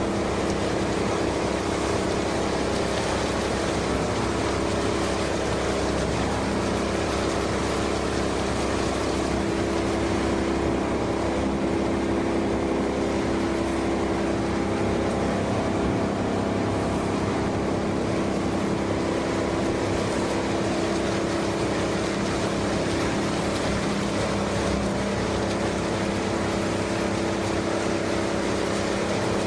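PE/PP plastic washing machine running: a steady, unchanging mechanical drone with a constant hum.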